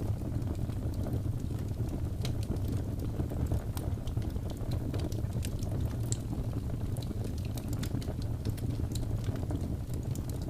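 Log fire burning in a fireplace: a steady low rumble of flames with frequent sharp crackles and pops scattered irregularly throughout.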